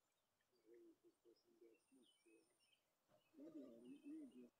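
Birds calling over the water: a low, wavering, cooing call in two spells, with faint short high chirps in between.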